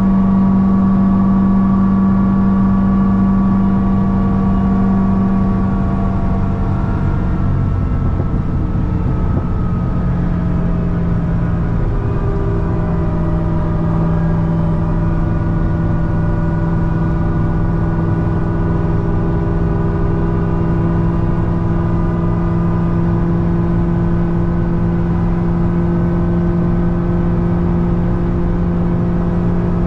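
A supercharged 6.2-litre LS9 V8 in a C6 Corvette ZR1 with a Kong 2650 blower, running at a steady highway cruise. Its pitch eases down slightly about eight to twelve seconds in, then holds steady.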